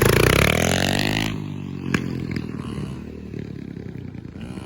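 Yamaha PW50 two-stroke youth dirt bike engine going by close, its pitch falling as the revs drop, then cutting down sharply to a quieter, lower running sound as the bike moves off. A single sharp tick comes about two seconds in.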